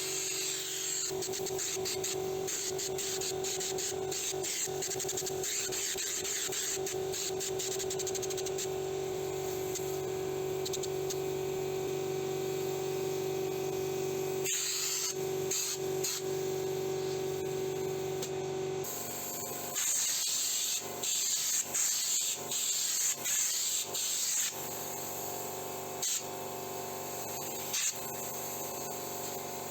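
Compressed-air spray gun spraying stone chip guard coating. It is a steady spraying hiss with a steady hum for most of the time, then short repeated bursts of spray about two-thirds of the way in.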